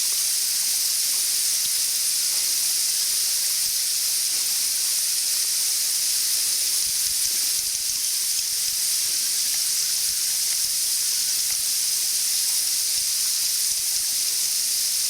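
A steady high-pitched hiss that keeps an even level, with no breaks or distinct calls.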